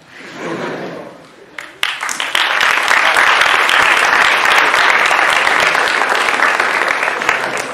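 Audience applauding a performer's introduction, the clapping swelling in about two seconds in and holding steady before tapering off near the end.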